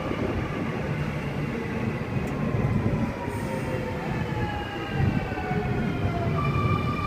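Sydney Trains Millennium (M set) electric train pulling into the platform, its motor whine falling steadily in pitch as it slows over a rumbling run of wheels. About six seconds in, a steady higher whine sets in.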